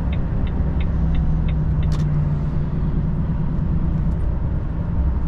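Truck's engine and road noise droning steadily inside the cab, with the turn-signal indicator ticking about three times a second for the first two seconds, ending in one sharper click.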